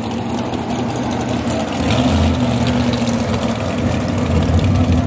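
Drag-race car engines idling at the start line, a steady low rumble that grows louder about two seconds in.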